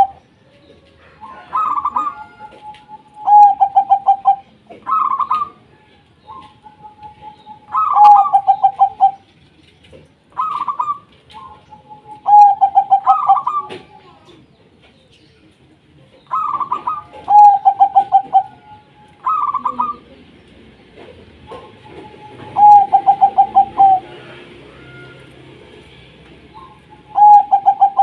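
Zebra dove (perkutut) cooing: a phrase every two to four seconds, each a higher opening note followed by a fast rolling trill, with softer coos between the phrases.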